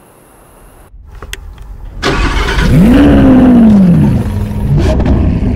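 Lamborghini Aventador S's V12 engine starting after a few faint clicks. It catches loudly about two seconds in, revs up and falls back over about a second and a half, then settles to a steady idle.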